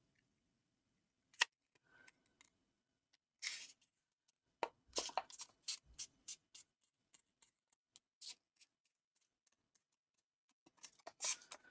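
Faint scattered rustles and light taps of a paper square being turned over and folded by hand.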